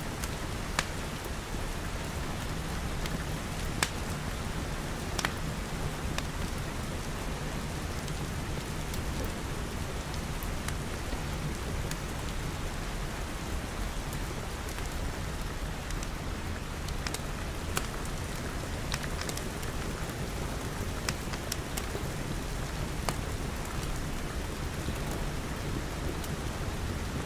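Steady rain pattering on a glass roof and walls, with a low rumble underneath and scattered sharp pops and ticks.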